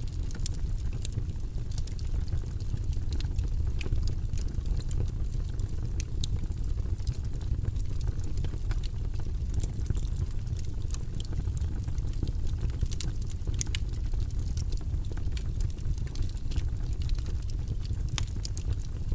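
Wood fire burning in a fireplace: a steady low rumble of flames with many scattered sharp crackles.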